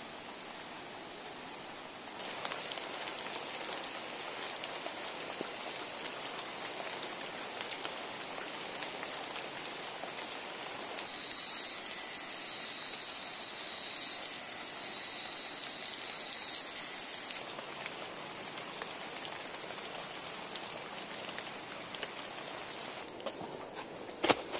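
Steady drizzle falling on forest foliage and the ground, getting louder about two seconds in. A high buzzing call sounds three times in the middle, and a sharp knock comes near the end.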